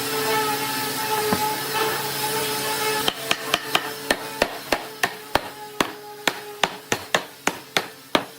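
A hammer striking wood in a quick, steady series of blows, roughly three a second, starting about three seconds in. Background music plays throughout.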